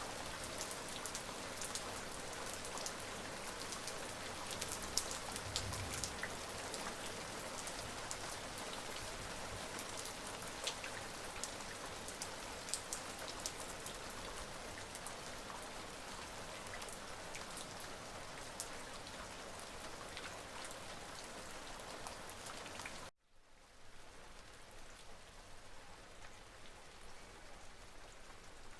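Steady rain falling, with many sharp individual drop hits on a surface. About 23 seconds in it cuts off abruptly and comes back as a quieter, softer rain.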